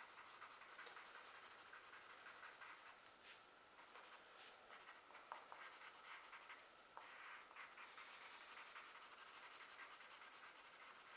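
Faint scratching of a pencil drawing short strokes on paper, with brief pauses about three and seven seconds in.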